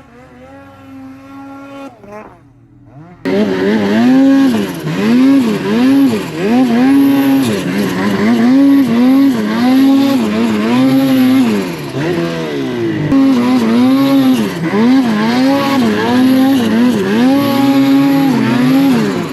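Snowmobile engine for the first two seconds a quieter, steady engine note that sags away, then about three seconds in a loud engine note cuts in and revs up and down over and over as the throttle is worked.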